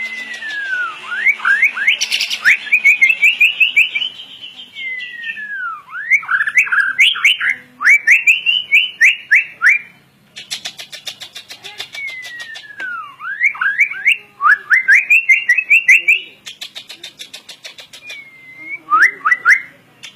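White-rumped shama (murai batu) singing: a falling whistle followed by a quick run of rising whistled notes, the phrase repeated three times with short pauses and a shorter fourth start near the end. A rapid, high ticking chatter runs in between.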